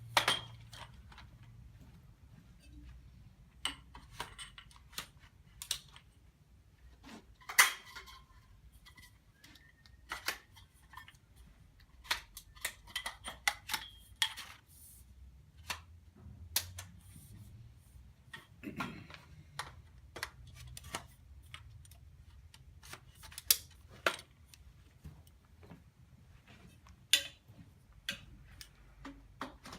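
Frame tubes of a portable curved display stand being handled and pushed together: scattered sharp clicks and clacks as the sections meet and their push-button locks snap in place.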